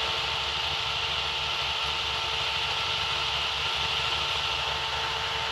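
KTM 200 Duke's single-cylinder engine running steadily, with a steady hiss over it and a faint even whine.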